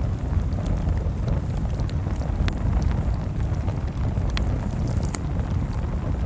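Campfire burning: a steady low rumble of the flames with a few sharp crackling pops from the wood, about three of them scattered through.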